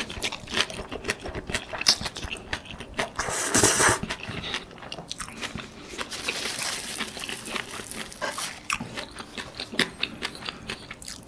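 Close-miked chewing of pad thai rice noodles, bean sprouts and prawns eaten by hand: many wet smacking clicks of the mouth, a louder rushing burst about three and a half seconds in, and a softer rustle of a tissue around six to seven seconds in.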